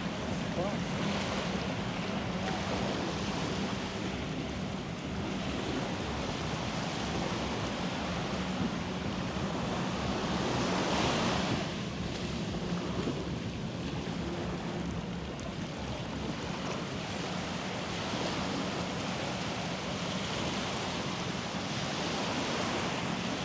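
Surf washing onto a sandy beach, a continuous rush of breaking waves that swells louder about halfway through, over a steady low hum.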